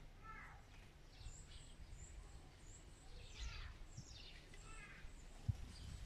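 Faint small-bird chirps and calls: several short high notes and a few quick falling sweeps. A low soft thump comes near the end.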